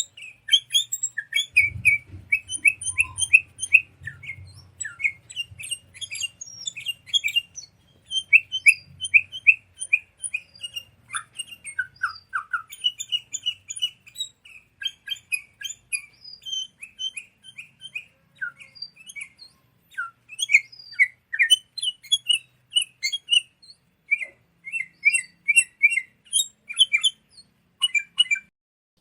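A songbird singing: long runs of quick, short, high chirping notes, with brief pauses about every seven to eight seconds.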